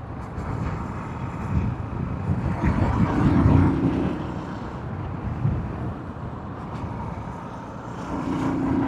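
Motorcycle engine running under way, with wind and road noise; the engine note swells about three seconds in and again near the end.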